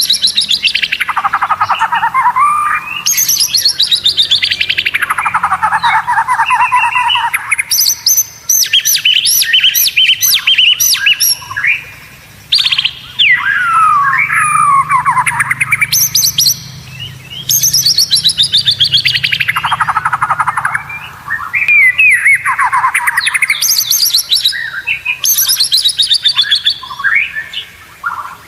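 White-rumped shama (murai batu) singing a loud, varied song: long phrases of rapid repeated notes, many sweeping down from high to low, broken by short pauses.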